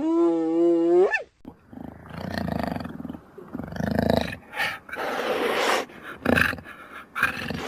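An animal gives one drawn-out howl lasting about a second that rises in pitch at the end, then a series of harsh, rasping growls and roar-like calls.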